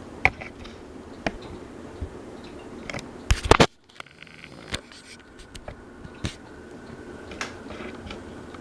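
Design House Manhattan ceiling fan running with a steady hum and irregular sharp clicks about once a second, with a louder burst of clicking a little past three seconds.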